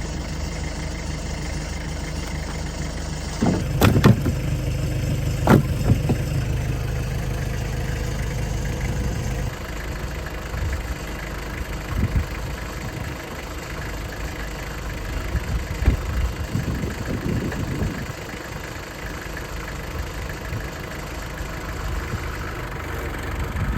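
Tractor engine idling steadily while firewood is loaded into its metal loader bucket: two loud knocks of logs landing about four and five and a half seconds in, then lighter knocks later on. The engine's low hum drops away about nine seconds in.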